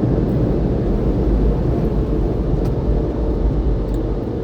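Car wash air dryer blowers running, a loud steady rush of air blowing over the truck in the drying stage at the end of the wash.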